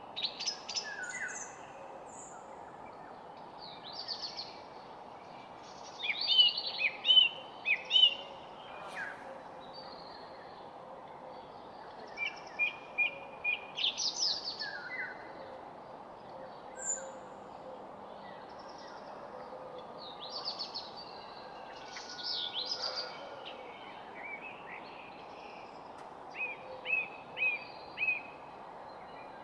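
Several songbirds singing and chirping, short trills and calls from more than one bird overlapping, over a steady background hiss.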